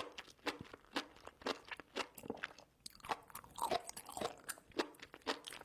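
Close-miked chewing of spicy enoki mushrooms: a steady run of crisp, crunchy bites, about two a second.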